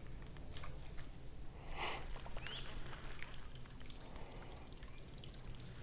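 Quiet open-air ambience with a steady low rumble and scattered small clicks, and a brief water splash about two seconds in.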